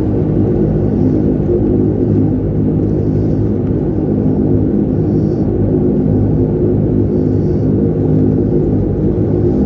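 A de Havilland Canada Dash 8-300's twin turboprop engines and propellers running at steady power, giving a loud, even drone with a deep rumble under it.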